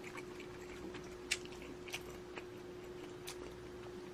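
Quiet eating sounds: soft chewing with a few faint, scattered clicks, the clearest about a second in, over a steady faint hum.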